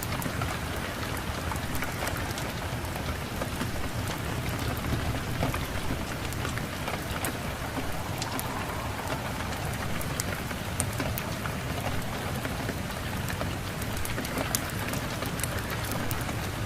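Steady rain falling, an even rushing hiss with sharp little clicks scattered throughout over a low, steady rumble.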